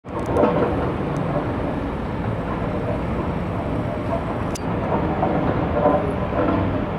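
Steady low rumble of a large passing vehicle, with a few faint clicks.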